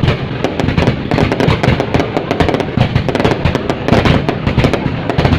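Fireworks going off: a dense, continuous run of overlapping bangs and crackles with no pause.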